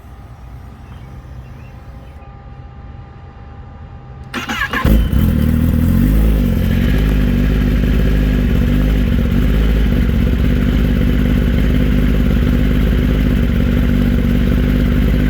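A Kawasaki Ninja ZX-10R's inline-four engine, fitted with an M4 slip-on exhaust, is started about four and a half seconds in. It catches at once and then idles steadily and loudly.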